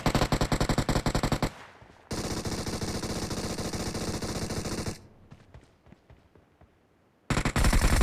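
Video-game automatic gunfire in bursts. A rapid burst at about ten shots a second stops about a second and a half in. A denser, continuous stretch of fire runs from about two seconds to five. After a pause with a few faint clicks, the rapid fire starts again near the end.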